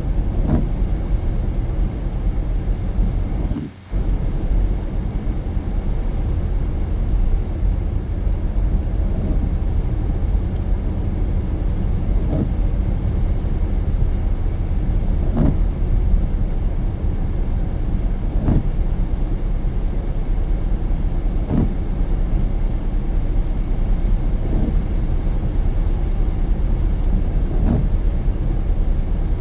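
Car driving on a wet road with steady tyre and engine rumble, and a short swish about every three seconds from the windshield wipers. The sound drops out for a moment about four seconds in.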